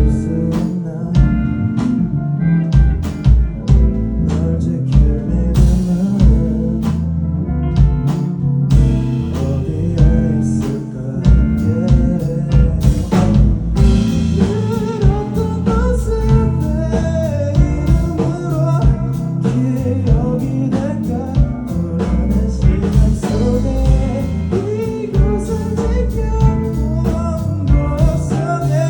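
Live rock band playing a song: singing over guitar and drum kit, with a steady drum beat.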